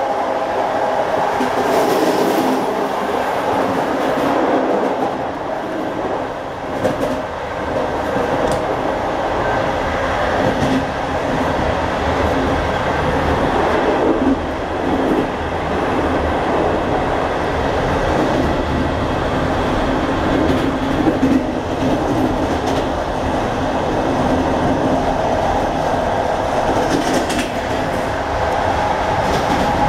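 Interior running noise of a Czech second-class passenger coach under way: the steady rumble of wheels on rails and the coach body, with a few brief clicks from the track.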